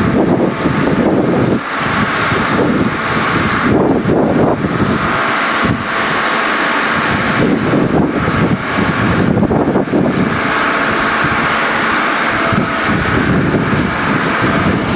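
Loud jet engine and air noise from a Boeing 737-200 freighter with its Pratt & Whitney JT8D engines, heard on the flight deck. The noise swells and eases every second or two and cuts off suddenly at the end.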